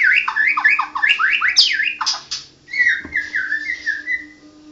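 White-rumped shama (murai batu) singing: quick runs of down-slurred whistled notes with one sharp rising note, then after a short gap a softer series of descending notes. The song lacks its loud 'tembakan' burst phrases, which the keeper puts down to the bird being heavily in moult.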